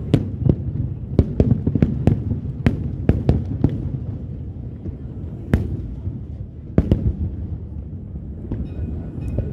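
Aerial fireworks bursting: a quick run of sharp bangs in the first four seconds, then single reports about once a second or less, over a continuous low background rumble.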